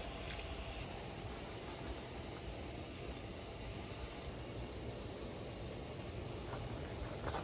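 Steady outdoor background hiss with a low rumble underneath and a few faint clicks.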